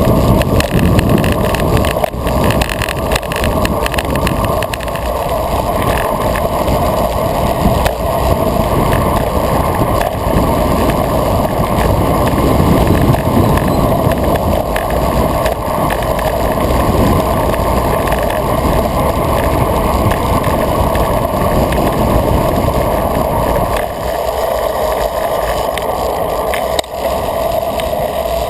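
Steady rush of wind and tyre noise picked up by a bike-mounted action camera on a road bike riding at speed, with a few knocks.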